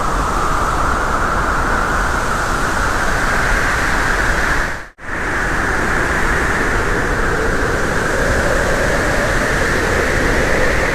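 Steady road and wind noise of a moving vehicle, a loud even rush with no engine note or rhythm, cut off briefly about halfway through.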